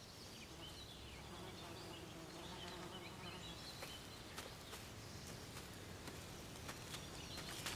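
Faint woodland ambience with scattered high bird chirps and occasional light ticks over a low, steady background hum.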